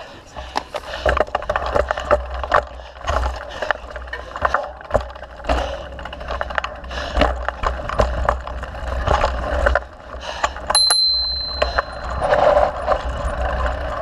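Mountain bike rattling and clicking over a rough trail, with low wind rumble on the mic. About eleven seconds in, a single sharp ding rings on briefly as a high tone.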